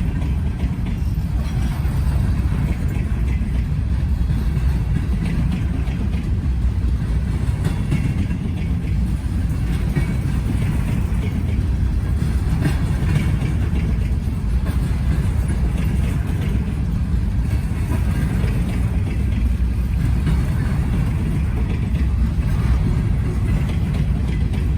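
Freight train rolling by: a steady low rumble that holds level throughout.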